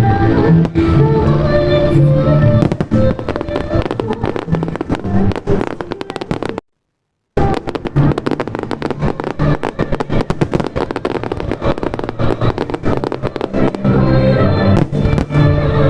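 Fireworks bursting in quick succession, a dense run of bangs and crackles, over loud music played for the show. All sound cuts out for under a second about seven seconds in.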